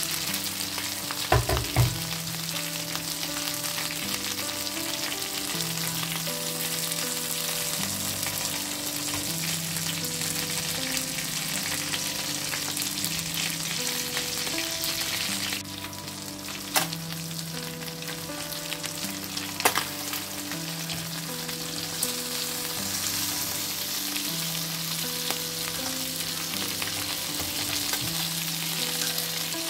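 Chicken skewers sizzling and spitting in hot oil in an uncovered frying pan, a steady hiss. A few sharp knocks come as the pan and skewers are handled, about two seconds in and twice more past the middle.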